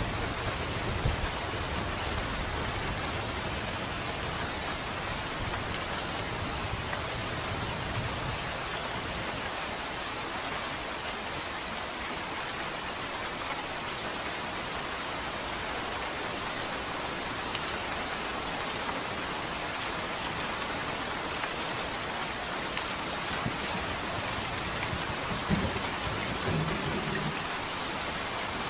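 Steady rain falling, with a low rumble of thunder that dies away over the first eight seconds or so. A brief low rumble returns near the end.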